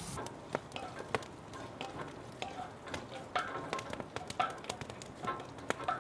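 Irregular light clinks and taps of a utensil against a cast iron pan during campfire cooking, some with a short metallic ring.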